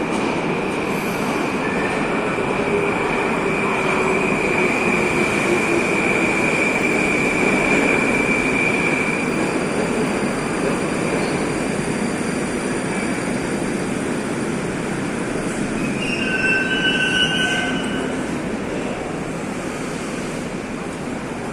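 Moscow metro train running along the track with the dense rumble of wheels on rail. A steady high wheel squeal holds for the first nine seconds or so, another brief squeal comes about two-thirds of the way through, and the noise eases near the end.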